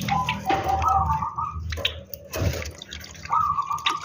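Java sparrow bathing: irregular splashing and dripping of water, with a held, wavering tone heard twice, near the start and near the end.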